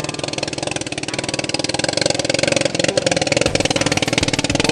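Small off-road vehicle engine running with a fast, even beat, growing louder about two seconds in.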